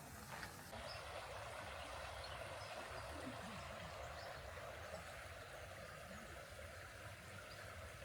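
Faint, steady outdoor ambient noise, with a few footsteps in the first second.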